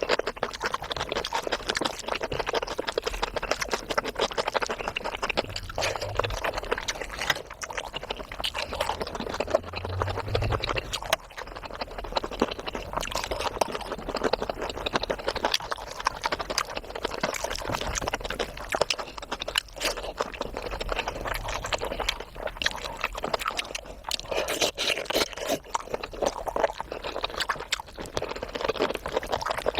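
Close-miked eating of curry and rice: continuous wet chewing and mouth clicks.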